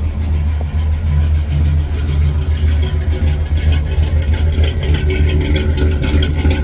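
1983 Chevy K20 pickup's carbureted gasoline engine running steadily with a low rumble, just after a cold start in freezing weather, on an Edelbrock 600 CFM carburetor with electric choke.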